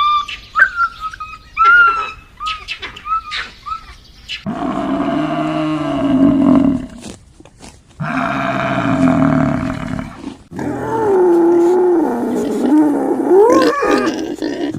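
A large animal calling: a few short, high chirping calls, then three long, loud, drawn-out roars, the last wavering in pitch.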